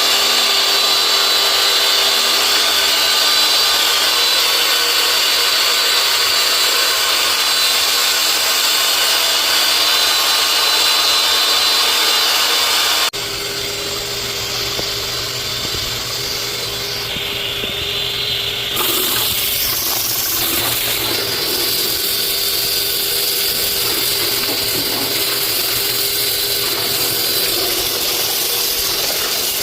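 Steady motor noise with a hiss, switching abruptly to a different steady machine noise about thirteen seconds in and shifting again about nineteen seconds in.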